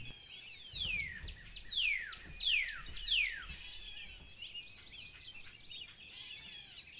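Wild birds singing: a series of four loud whistled notes that slide down in pitch, about a second apart, over steady softer chirping and trilling from other birds.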